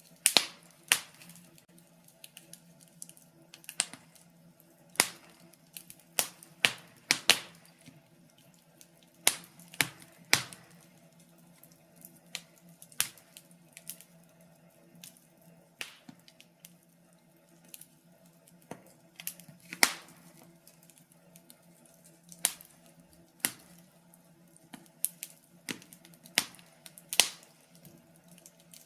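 Fire crackling in a fireplace: irregular sharp pops and snaps, about one or two a second, over a faint low hum.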